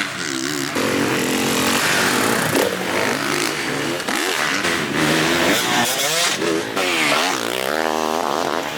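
Full-size motocross dirt bikes running on the track. Their engines rev up and down, with several overlapping engine notes rising and falling in pitch as the riders work the throttle and shift.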